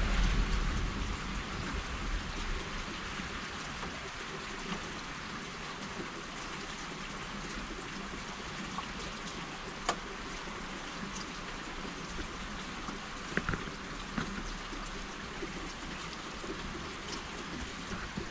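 Steady rain falling on the street and cars, with the low rumble of thunder dying away in the first couple of seconds. A few sharp ticks of drips stand out around the middle.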